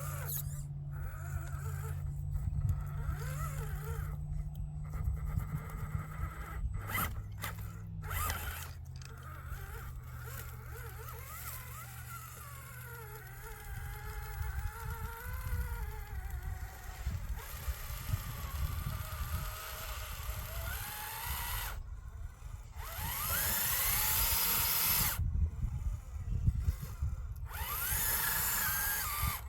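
Electric motor and geared drivetrain of an RC crawler whining as it is driven, the pitch rising and falling with the throttle, with louder bursts near the end.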